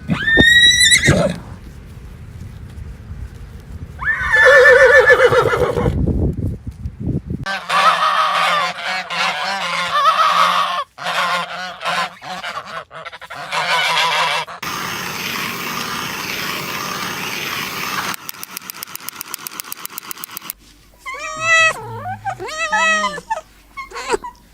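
A series of different animal calls spliced together, cutting abruptly from one to the next. The calls are pitched and bend in pitch, and there is a stretch of rapid clicking near the three-quarter mark.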